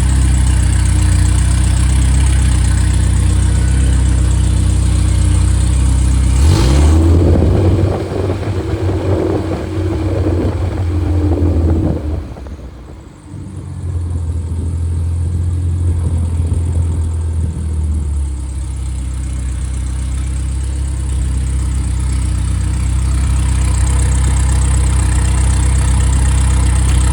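Freshly rebuilt Triumph 1500 four-cylinder engine (the Spitfire 1500 / MG Midget 1500 unit) running smoothly. It is brought up in revs about six seconds in, is rougher for several seconds, dips about twelve seconds in, then settles back to a steady run.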